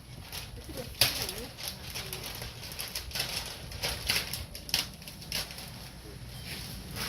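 Irregular rustling and crinkling with scattered sharp knocks, typical of packaging being handled and pulled off during an unboxing, over a low steady hum.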